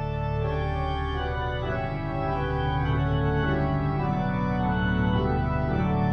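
Organ playing slow, sustained chords over a held bass, the notes changing every second or so: a postlude after the dismissal at the end of a church service.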